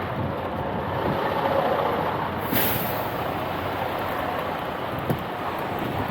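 Heavy truck sound, steady, with a short hiss of air about two and a half seconds in, like an air brake letting off.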